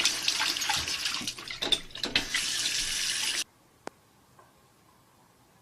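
Water running hard from a tap or shower, with some splashing, cutting off suddenly about three and a half seconds in. After that it is near silence with a single faint click.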